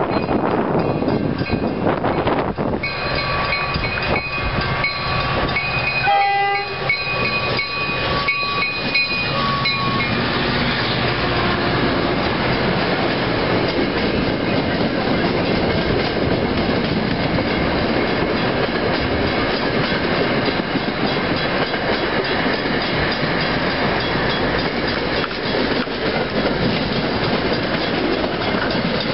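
MBTA commuter train's locomotive horn sounding for the grade crossing, steady blasts with a short break about six seconds in, ending about ten seconds in. The train then passes close by, the coaches' wheels rumbling and clattering over the rail joints.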